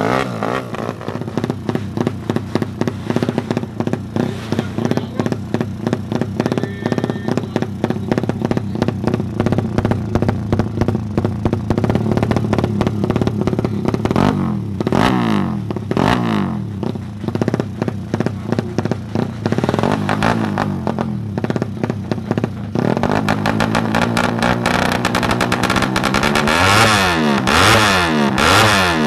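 Suzuki Satria FU motorcycle engine, bored to 155 cc, running hard through an aftermarket racing exhaust. Its pitch rises and falls as it revs, most clearly about halfway through and again near the end.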